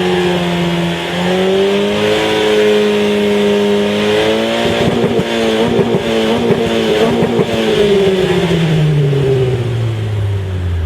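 Renault Clio III RS 2.0 four-cylinder engine through a Supersprint aftermarket exhaust, held at high revs for several seconds with a rough, raspy stretch in the middle. The pitch then falls steadily as the revs drop near the end.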